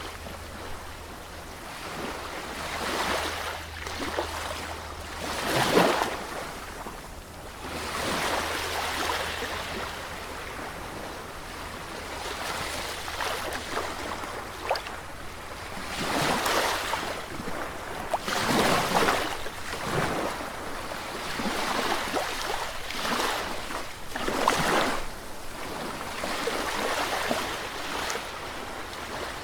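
Sea waves breaking and washing onto a shore, the surf swelling and falling away every few seconds.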